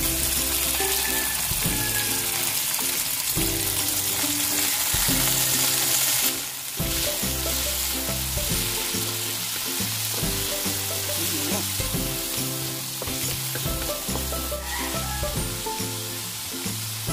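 Diced pork sizzling in oil in a wok with onion and garlic, stirred with a wooden spatula. Background music with held low notes plays underneath.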